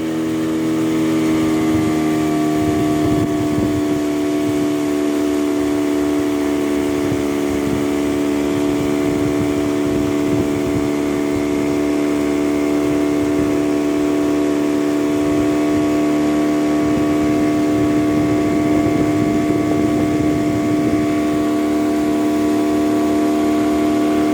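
Small boat outboard motor running at a steady speed, a constant engine drone that picks up slightly in the first couple of seconds and then holds, over the rush of wind and water.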